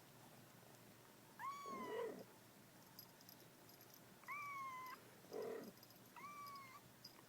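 Five-week-old kitten mewing three times: short, high, steady-pitched mews about two seconds apart. Two brief, rougher, lower sounds come between them.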